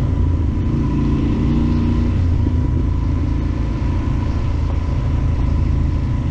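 Yamaha Super Ténéré XT1200Z's 1200 cc parallel-twin engine running steadily at an even, unchanging pitch, with a low rumble throughout.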